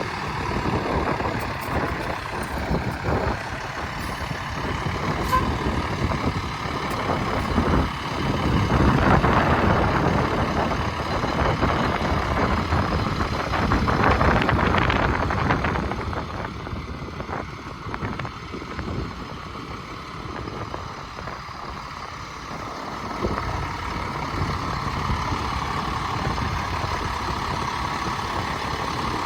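International semi truck running, a continuous rough engine and road noise. It swells twice in the first half and eases to a lower level for several seconds after the middle.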